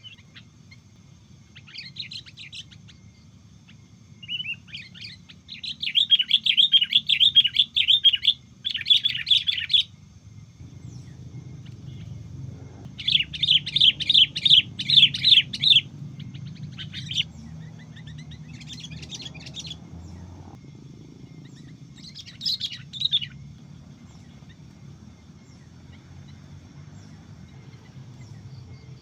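Sooty-headed bulbuls calling: bursts of rapid, bubbly chirps, two long loud runs and several shorter ones.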